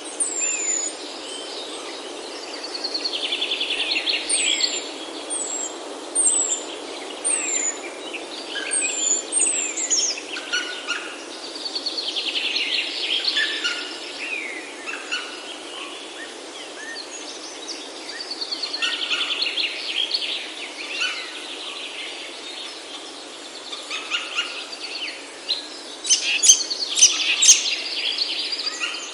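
Several wild birds singing. One repeats a rapid trilling phrase every several seconds, short high down-slurred whistles come in the first third, and a loud cluster of sharp calls arrives near the end, over a steady background hiss.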